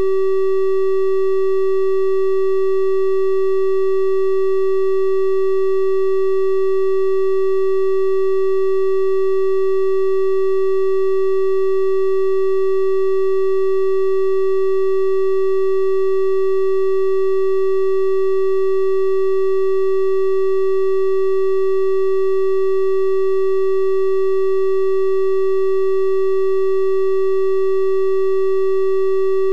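A steady electronic 384 Hz triangle-wave tone, one constant pitch with faint higher overtones, held without change.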